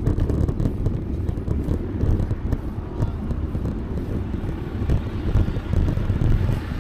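Wind buffeting the microphone while riding, a low, uneven rush that rises and falls in gusts.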